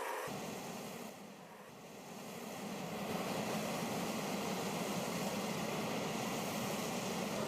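MV-22 Osprey's turbine engines running on the ground as a steady noise, dipping briefly about a second and a half in, then holding steady.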